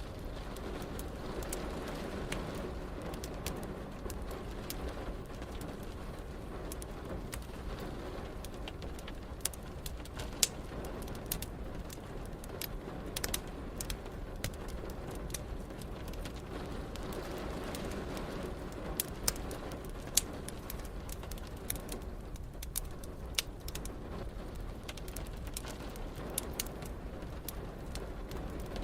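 Wood fire crackling in a fireplace, with irregular sharp pops, over the steady hiss of rain and a low rumble underneath.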